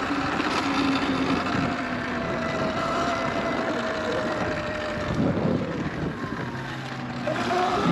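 Sur-Ron electric dirt bike's motor whining while riding, with wind rushing over the microphone. The whine slowly drops in pitch as the bike eases off, then climbs again near the end as it speeds back up.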